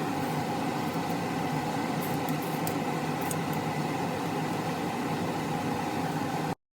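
Steady mechanical hum with a few faint high clicks about two to three and a half seconds in; it cuts off suddenly near the end.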